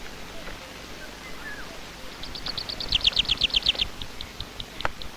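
A songbird singing a rapid, high trill of about a dozen notes a second that swells louder, then slows into separate spaced notes, over a steady soft hiss. There is one sharp click near the end.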